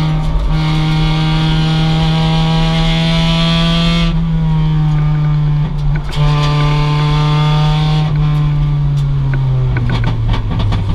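2006 Mazda MX-5 race car's stock four-cylinder engine running hard at high revs, with brief breaks in the note about four and six seconds in. Near the end the pitch falls as the revs drop, with a few sharp clicks.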